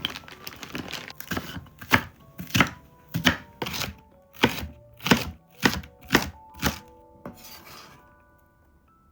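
A kitchen knife chopping on a cutting board in a steady rhythm of about two strokes a second, stopping about seven seconds in.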